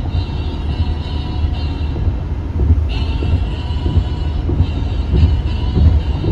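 Jet engines of a Boeing 737-700 (CFM56-7B turbofans) on landing: a loud, steady low rumble, with a higher whine coming in about three seconds in.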